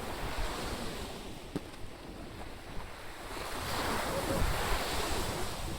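Surf breaking on a beach with wind buffeting the microphone; a louder surge of breaking water swells up about two-thirds of the way through.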